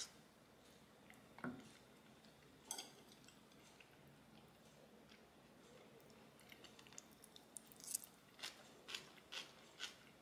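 A person chewing food close to the microphone: a few isolated soft clicks early on, then a run of short crisp chewing sounds about twice a second in the last few seconds.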